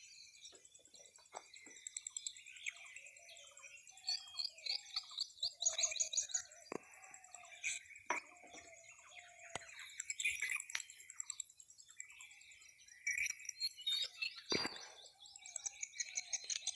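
Small birds chirping and calling in quick repeated notes, with a few short knocks now and then, the loudest near the end.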